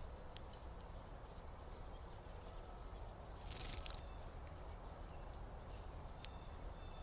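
A few faint, short bird chirps over a steady low background rumble and hiss; the most noticeable chirp comes about three and a half seconds in.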